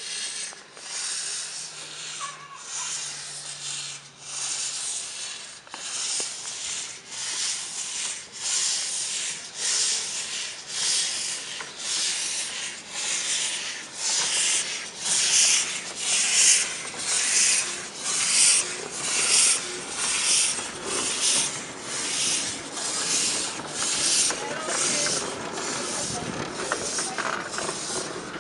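Miniature-railway steam locomotive working, its exhaust chuffing in steady hissing beats about once a second, growing louder and slightly quicker from about halfway.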